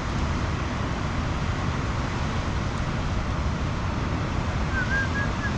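Steady rushing noise with a fluttering low rumble, even and unbroken throughout. A faint string of short high chirps comes in near the end.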